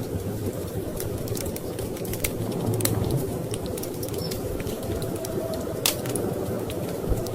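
Wood fire crackling in a fireplace, with scattered sharp pops, the loudest a little before six seconds in, over a steady low rumble of storm wind.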